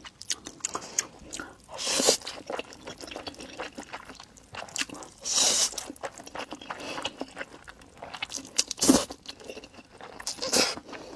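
Close-miked chewing and wet mouth sounds of someone eating glass noodles with minced pork, with small clicks throughout and a few louder wet bursts.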